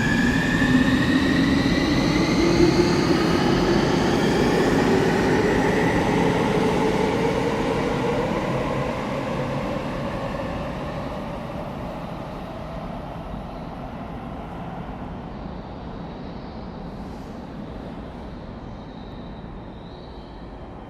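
Electric commuter train pulling out of the station: its motors whine in several rising tones as it gathers speed, over the running rumble. The sound then fades away as the train leaves.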